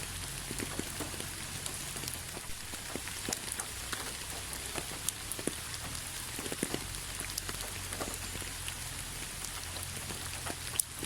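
Steady rain falling, with many separate drops landing as sharp clicks over an even hiss and a steady low rumble.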